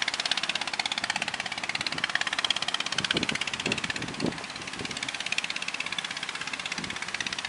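Fishing boat engine running steadily with a rapid, even knocking beat.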